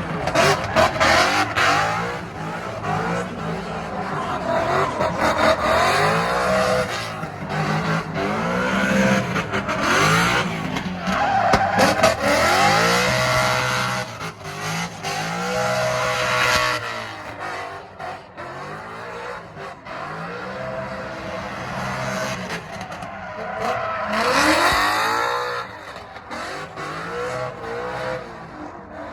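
Drift cars' engines revving hard up and down again and again as they slide, with loud tire squeal in several long stretches, loudest around ten, fifteen and twenty-five seconds in.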